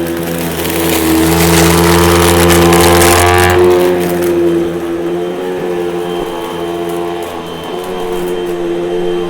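Hoover vacuum cleaner running with a steady motor whine; for the first three and a half seconds or so a loud rushing hiss of air rides on top, then drops away, leaving the motor alone.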